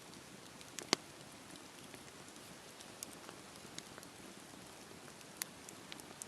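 Campfire burning with a soft steady hiss and scattered sharp crackles and pops of the wood, the loudest pop about a second in.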